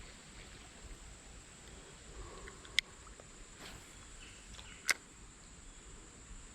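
Faint outdoor background with a steady high hiss, broken by two short sharp clicks about two seconds apart.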